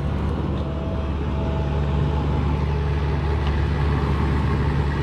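Diesel engine running steadily, a low even drone.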